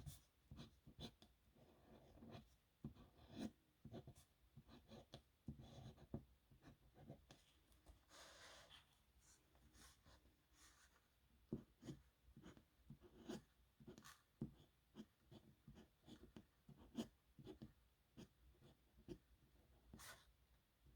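Faint scratching of a nib pen on paper, in many short irregular strokes with one longer stroke in the middle.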